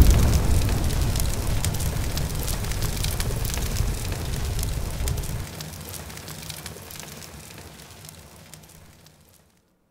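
Crackling fire sound effect of a fireball burning out, with a low rumble under it. It fades steadily, the rumble dropping away about halfway through, and dies out to silence near the end.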